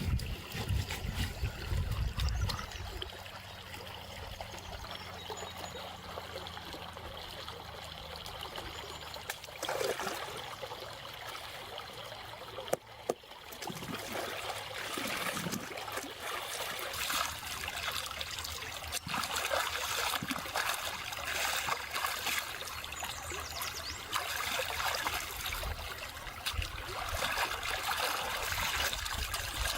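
Water trickling and running steadily, with a single sharp knock about thirteen seconds in.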